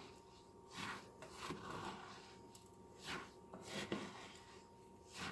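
A spoon stirring and scraping birdseed through a sticky shortening and peanut butter mixture, in irregular rasping strokes about a second apart.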